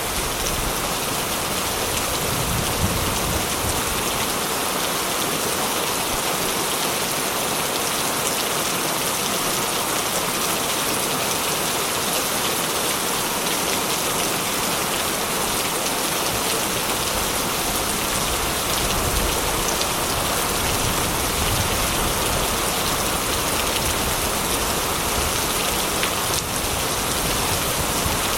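Heavy rain drumming steadily on a corrugated metal roof, a dense, even patter.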